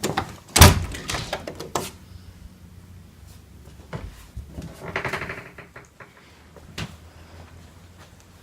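A few sharp knocks and clicks, the loudest about half a second in, then a brief pitched sound around five seconds in and another single click later on.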